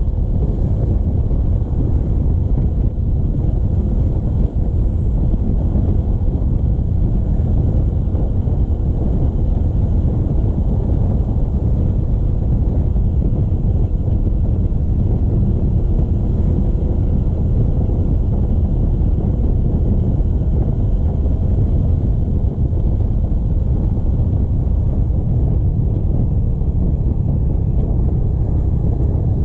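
Wind buffeting the microphone on a moving motorcycle, with road and engine noise underneath, as a steady low rumble.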